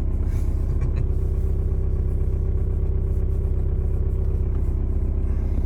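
Volkswagen 1.9 TDI (ALH) four-cylinder turbodiesel idling steadily after a cold start.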